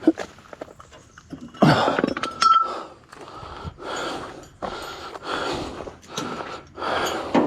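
A person breathing hard close to the microphone, about one breath a second, as heavy gear is packed up by hand. About two and a half seconds in there is a metallic clink with a short ring.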